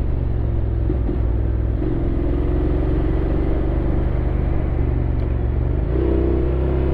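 Honda X-ADV 750's parallel-twin engine running under way with a steady low rumble. Its pitch shifts about a second in, again at about two seconds, and once more near the end as the revs change.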